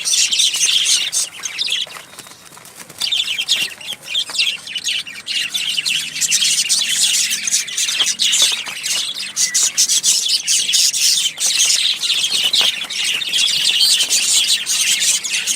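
Many birds calling at once in a dense, continuous high chatter, with a brief lull about two seconds in.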